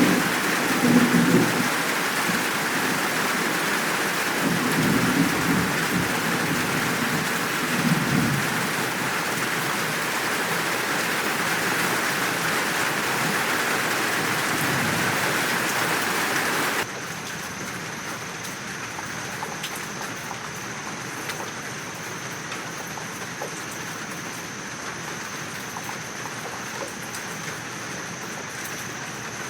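Heavy, steady rain with low rolling thunder rumbles. About two-thirds of the way through it cuts abruptly to quieter, lighter rain with a steady high, thin whine in the background.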